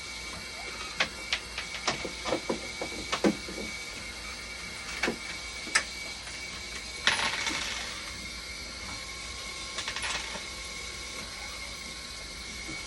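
Dialysis machine running under test: a series of sharp clicks and knocks in the first few seconds, a short hiss about seven seconds in and a fainter one near ten seconds, over a faint steady high tone.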